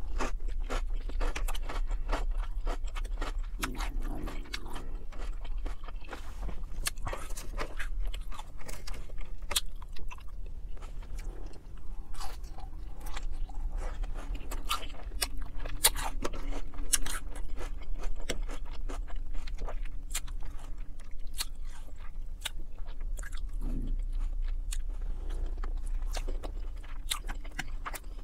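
A person chewing mouthfuls of lettuce and shrimp Alfredo pasta, with many small, irregular, sharp mouth clicks and some crunch, over a low steady hum.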